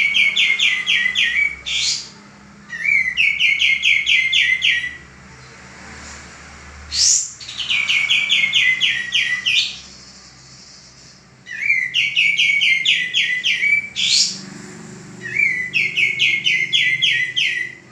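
Male kapas tembak bulbul singing vigorously: repeated phrases of about two seconds, each opening with a quick rising sweep and running into a fast string of bright notes, about five phrases with short pauses between.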